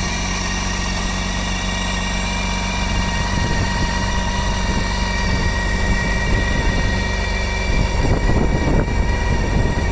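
Motorcycle engine idling steadily, with the revs picking up briefly about eight seconds in.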